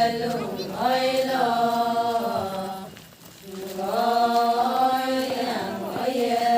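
Voices singing an Adi ponung chant: two long, drawn-out sung phrases on sustained vowels, with a brief break about three seconds in.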